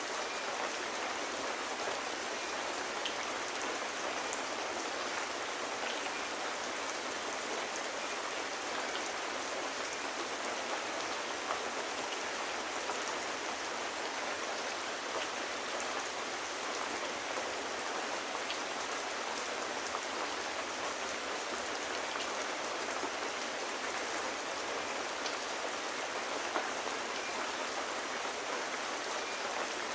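Steady rain falling, an even hiss of drops with a few scattered faint ticks.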